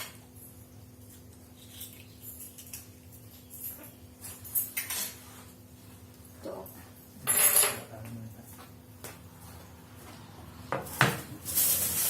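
Dishes and cutlery clinking and clattering as they are handled, in scattered knocks with a louder clatter about seven seconds in and again near the end.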